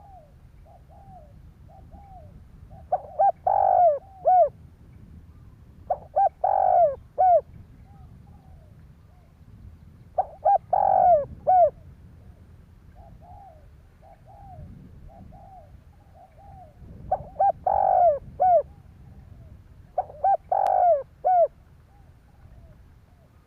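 Spotted dove cooing: five loud phrases of several short, rounded coos each, a few seconds apart, with softer coos in the gaps between them.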